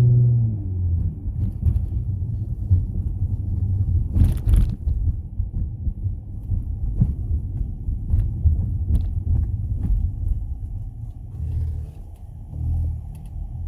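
Dodge Journey driving, freshly remote-tuned: the engine note rises as it pulls at the start, then settles into a steady low rumble with road noise. There is a short sharp noise burst about four seconds in.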